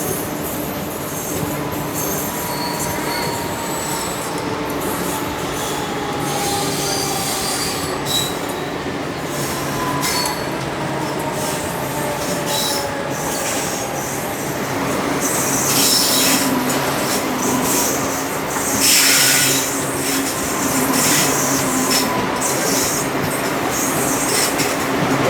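Passenger train of ICF coaches running on the track, heard from on board: a steady rumble of wheels on rail with thin squealing tones and two louder spells of high screeching hiss past the middle.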